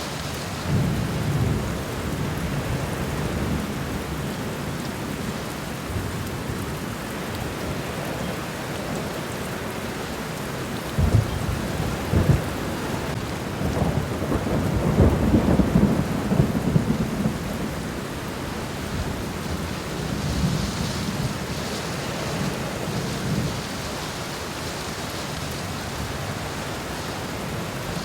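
Steady rain falling on a garden and hitting the ground, an even hiss throughout. Low rumbles swell through it, strongest about halfway, with two sharp low thumps just before that.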